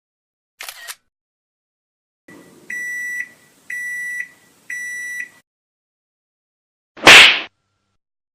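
Three high electronic beeps, each about half a second long and about a second apart, over a faint hum. Near the end comes a short, very loud burst of noise, and a brief faint noise is heard about a second in.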